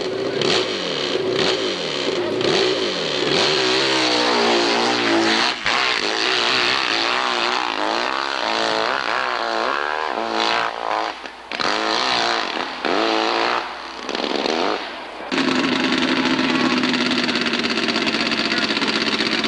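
Hillclimb motorcycle engine revving hard, its pitch rising and falling as the throttle is worked, with several brief throttle chops about two-thirds of the way in. About fifteen seconds in, the sound switches abruptly to a steady engine drone.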